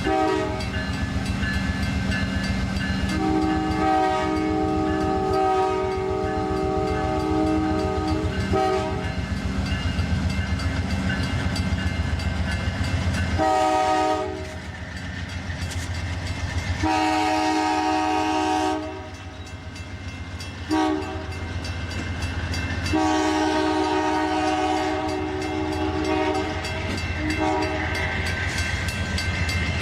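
Diesel locomotive's multi-chime air horn sounding a series of long and short blasts over the train's low engine rumble. Rail wheels click rhythmically underneath.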